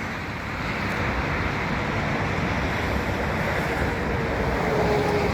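Jet airliner passing low overhead, its engines making a steady rushing noise that grows slightly louder, with a faint whine sliding slightly down in pitch near the end.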